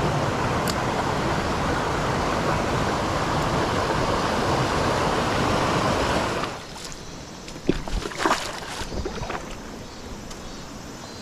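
Rushing water of a mountain stream, a steady loud noise that drops away suddenly about six and a half seconds in. A quieter background follows, with a few scattered knocks and clicks.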